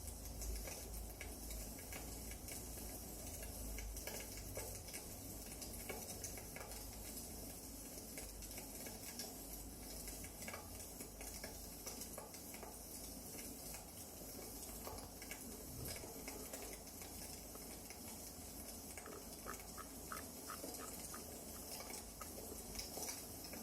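Wood fire burning in a fireplace: faint, irregular crackles and small pops over a steady soft hiss.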